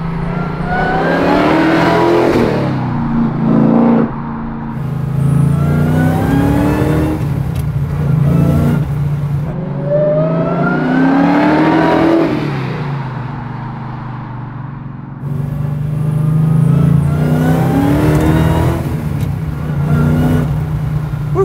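1969 Plymouth Road Runner's supercharged Hellcat V8 accelerating by in several pulls. The engine note rises in pitch with each pull and drops away between them.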